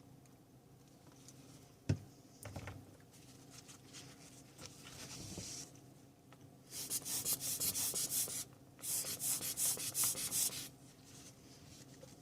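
Rapid rubbing or scrubbing strokes in two bursts of about two seconds each, after a single sharp knock a couple of seconds in.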